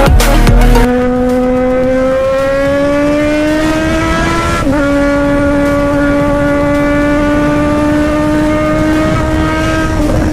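Sport motorcycle engine under hard acceleration at high revs, its pitch climbing steadily. About halfway through the pitch dips briefly as it shifts up a gear, then it holds high and eases off slightly near the end.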